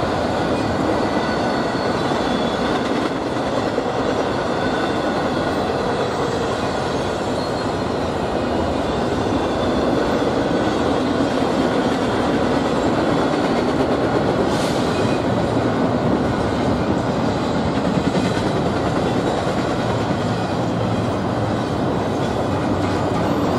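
Freight train of intermodal trailer and container cars rolling past at speed, a steady rumble and rattle of steel wheels on rail with a faint high wheel squeal in places.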